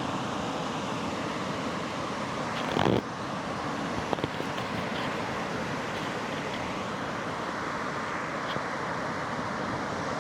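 Pacific Ocean surf: a steady wash of breaking waves, with a brief louder rush about three seconds in.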